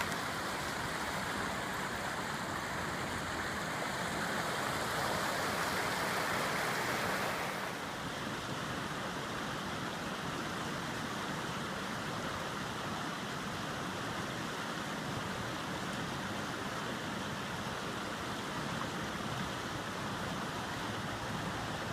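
Mountain river rushing steadily over rocks, a constant hiss of flowing water that turns slightly softer and duller after about seven and a half seconds.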